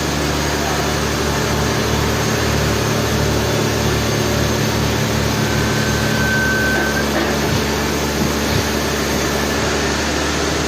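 Heavy machinery running steadily with a low hum, with a short high tone about six seconds in.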